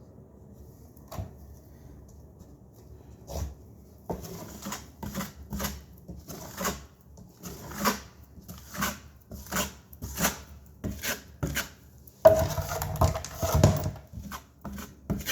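Putty knife scraping and spreading drywall joint compound in short strokes, about two a second, with a louder run of scraping near the end.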